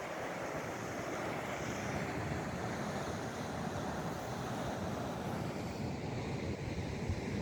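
Surf breaking and washing on a sandy beach, a steady rushing noise, with wind buffeting the microphone.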